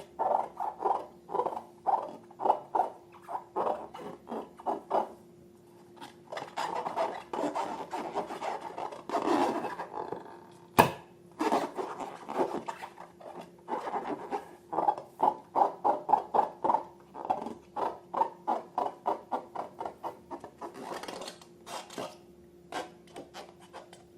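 Slime being worked and mixed, making a run of sticky clicking squelches about three or four a second, broken by stretches of softer rubbing and one sharp click about halfway through.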